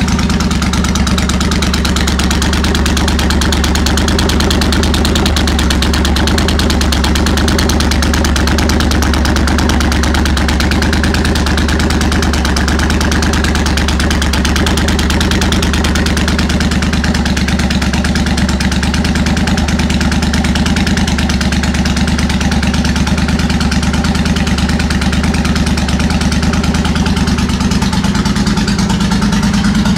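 Suzuki VS1400 Intruder's V-twin engine idling steadily through a Jardine full-system slashcut drag-pipe exhaust.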